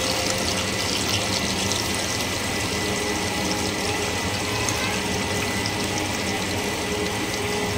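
Chopped onion frying in hot oil in a pot, a steady sizzle.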